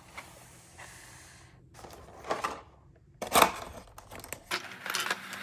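Toy packaging being handled and opened: intermittent rustling, tearing and light clicks of cardboard and plastic, louder twice in the middle.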